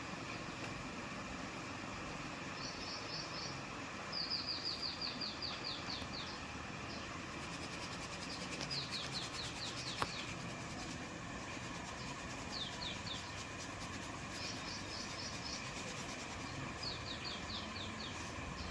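A bird calling in quick runs of short, high, downward-sweeping chirps, repeated every few seconds over steady background noise. A single sharp click sounds about ten seconds in.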